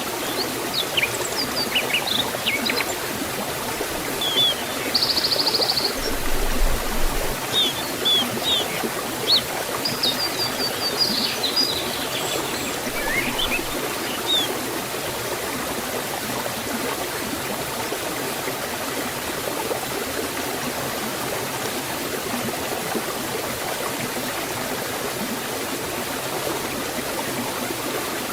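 Steady rushing of water flowing over a waterfall in a forest stream. Birds chirp with short, high calls over it during the first half, falling silent about halfway through.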